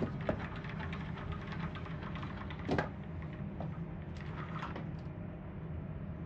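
Steady low drone of a ferry's engines and machinery heard on board, with small clicks and rattles and one louder knock near the middle.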